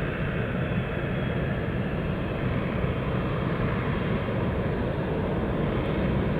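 Jet airliner on final approach to land, a steady engine rumble and rush that grows slightly louder toward the end.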